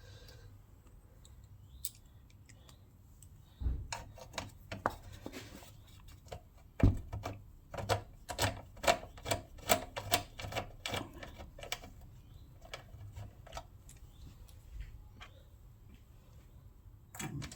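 Hand tools and metal parts clicking and knocking while bolts are fitted on a small engine, with a couple of heavier knocks and then a quick run of clicks partway through.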